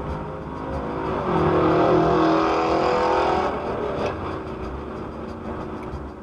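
Car on the road: vehicle running with traffic noise, and a steady pitched tone that holds for about two seconds starting a second in, the loudest part of the sound.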